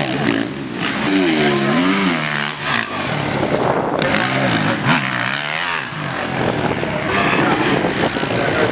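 Motocross bike engines revving, their pitch rising and falling repeatedly as the throttle is worked on a rough, muddy track, over a steady background rush of noise.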